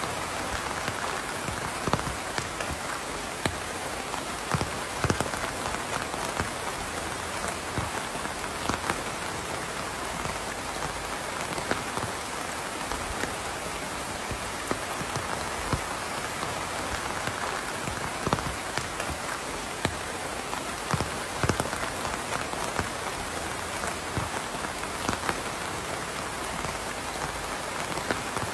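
Steady rain falling on a surface, a continuous hiss with individual drops pattering and ticking irregularly over it.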